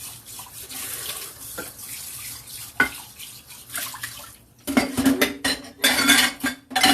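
Liquid running with a steady hiss, then about three seconds of a spoon clattering and scraping around inside a metal saucepan as the sauce is stirred.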